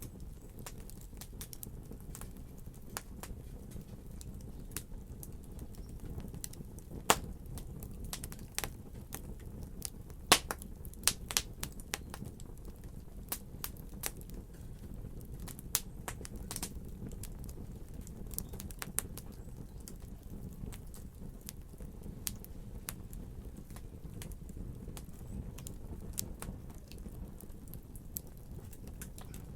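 Wood fire crackling: a steady low rumble of burning with irregular sharp pops and snaps scattered throughout, a few louder pops around 7 and 10–11 seconds in.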